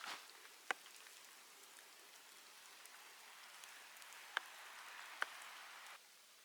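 Snow falling in a storm: a faint, steady hiss with three sharp ticks, which stops near the end.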